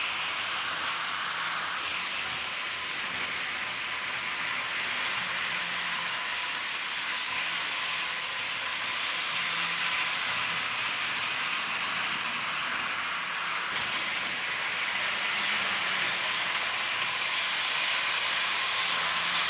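HO scale model train running around its track: a steady whirring hiss of the locomotive's motor and the cars' wheels rolling on the rails, growing a little louder near the end.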